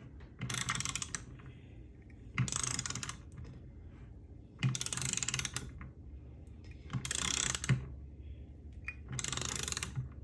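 Ratcheting torque wrench clicking in five short bursts about two seconds apart, driving a bolt down toward 120 inch-pounds on a 4L60E transmission.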